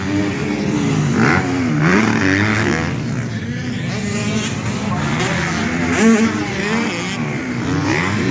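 Several racing engines running hard together, their pitch repeatedly rising and falling as they rev through the laps.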